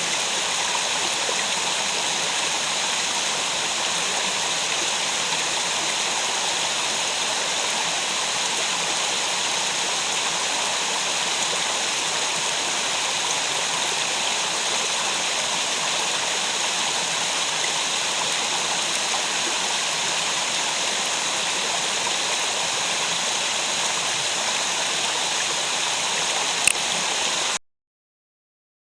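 Steady rush of water in a mountain gorge stream, a continuous even roar of running and falling water, which cuts off suddenly near the end.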